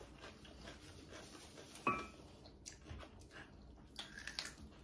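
Faint eating sounds: close-up chewing and mouth smacks with gloved hands pulling apart food, made up of small scattered clicks and one brief louder sound about two seconds in.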